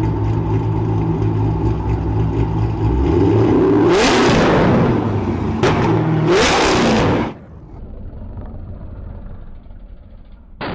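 BMW car engine running steadily, then revved hard twice, loud and harsh, before dropping back suddenly to a quieter run.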